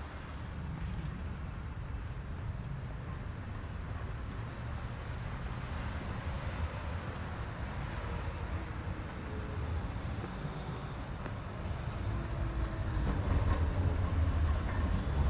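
City street traffic: a steady low rumble of passing vehicles that grows louder over the last few seconds.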